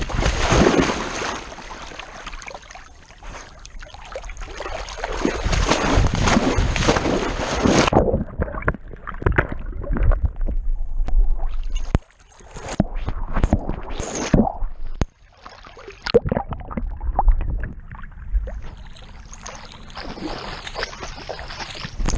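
Water splashing and sloshing around a GoPro strapped to a swimming dog's back, with irregular knocks and rubbing on the camera housing. The sound changes abruptly about eight seconds in, turning duller and choppier.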